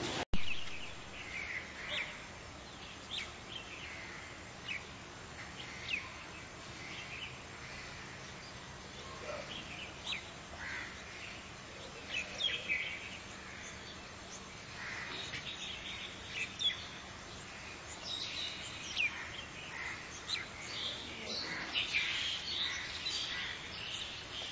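Birds chirping and calling, many short high chirps scattered over a faint steady background hiss.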